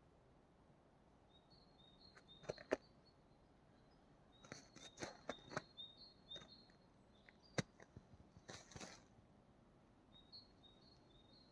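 Small birds chirping faintly in short, high repeated notes, with irregular sharp clicks and crunches in clusters around the middle, the loudest a couple of seconds in and about two thirds of the way through.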